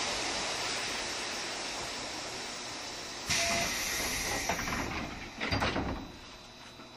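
Compressed air hissing out of a stopped 7200 series electric train: a steady hiss, then a sharper, louder burst of hiss about three seconds in. A couple of heavy thumps follow near the end, after which the carriage goes quiet.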